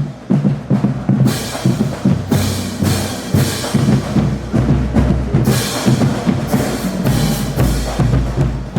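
A marching band drumline playing a driving cadence: rapid snare and tenor drum strokes over heavy bass drum hits.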